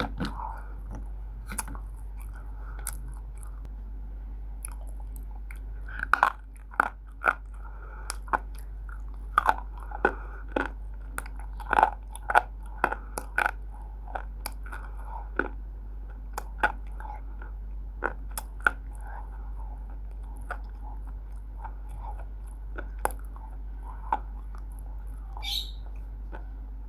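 A person biting and chewing roasted Multani mitti (fuller's earth clay) close to the microphone, making sharp dry crunches. The crunches come thickest from about six to fourteen seconds in, then grow sparser.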